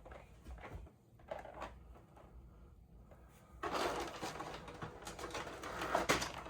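Packaging of a model kit being handled: light rustles, then from about halfway a louder, continuous crinkling and rustling of plastic and wrapping as parts are unpacked.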